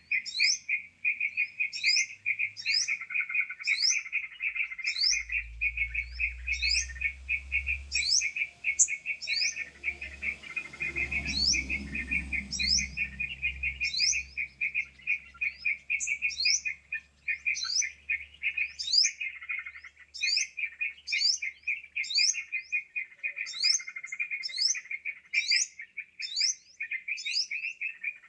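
Bird-lure recording of yellow-vented bulbul (trucukan) calls: a dense, fast, continuous chatter with short rising whistled notes repeating a bit more than once a second. A low rumble sits under it from about five seconds in until past the middle.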